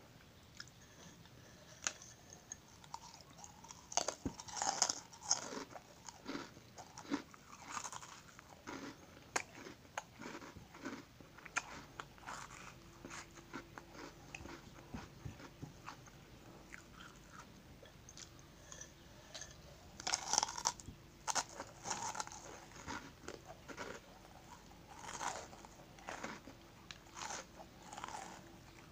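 Close-up crunching and chewing of crunchy cheese snack sticks, in irregular bouts of sharp crackles, louder about four seconds in and again around twenty seconds in.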